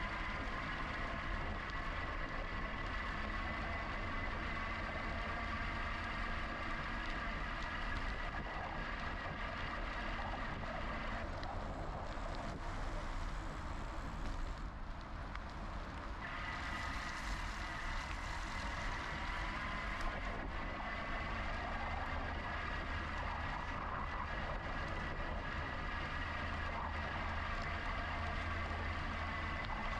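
GoCycle GX electric bike riding along, its hub motor giving a steady whine over a constant low rumble of wind and tyres. The whine drops back for a few seconds about halfway through, then returns.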